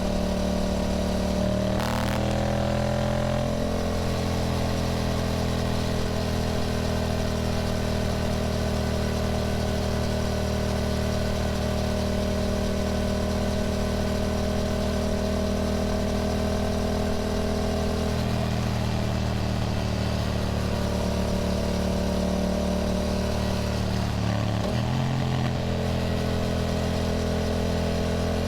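Yamaha motorcycle engine running steadily while riding, its note holding fairly constant, with small shifts in pitch about two seconds in and again a few times later as the throttle changes.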